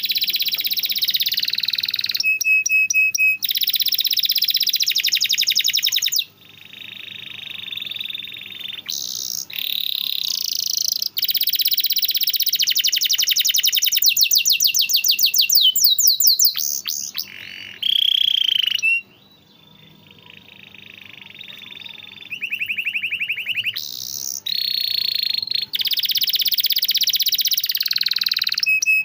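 Domestic canary singing a long, continuous song of rapid trills and rolling phrases, changing from one phrase to the next every few seconds, with a few short pauses.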